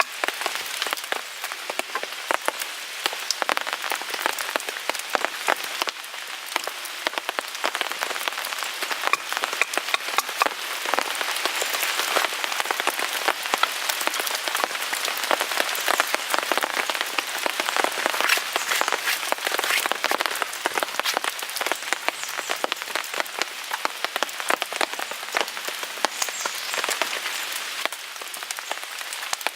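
Steady rain pattering on a tarp overhead, a dense spray of small drop clicks, a little heavier through the middle, mixed with the crackle of a small wood fire in a folding grill.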